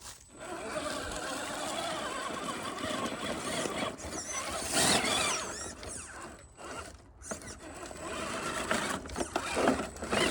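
SCX10 RC rock crawler's electric motor and geared drivetrain whining, the pitch wavering up and down with the throttle. It is loudest about five seconds in, dips briefly about seven seconds in, then picks up again.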